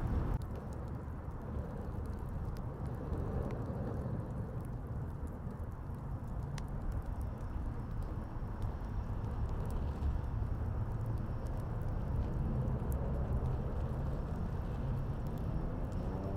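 Steady low rumble of city traffic, with a few sharp crackles and pops from a wood fire.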